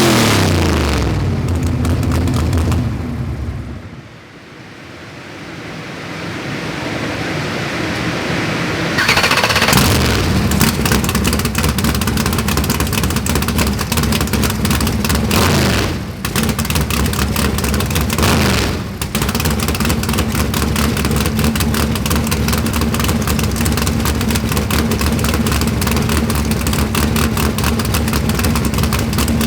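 Nitrous Chevy Nova drag car's engine with its revs falling away, dropping low and quieter for a few seconds. It then comes back up to a loud, rough, choppy idle that runs on with two brief dips.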